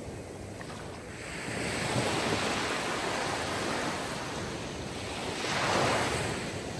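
Sea surf: waves washing in on the shore, the rush of water swelling twice, once about two seconds in and again, louder, near the end.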